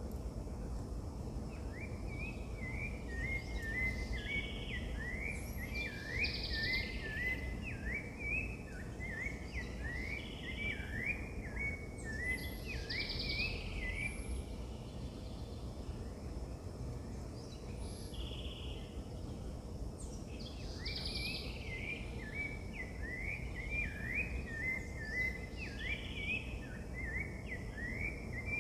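Wild birds singing: one bird repeats long runs of quick rising notes at a steady pitch, stopping for several seconds in the middle, while other higher calls recur every few seconds. A steady low rumble of outdoor background noise lies underneath.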